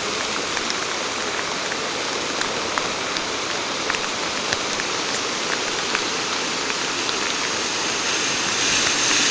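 Heavy rain falling steadily, with scattered drops tapping close by, over a continuous rush of water. Near the end a swelling hiss rises, like tyres on a wet road.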